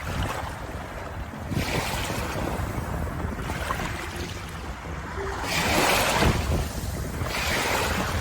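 Sea waves washing in, a rushing noise that swells and ebbs in repeated surges, the loudest about six seconds in.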